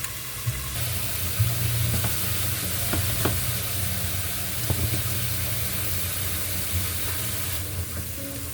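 Chicken cutlets frying in a pan: a steady sizzle that swells about a second in and eases near the end, with a few light clicks, like a utensil touching the pan, around three seconds in.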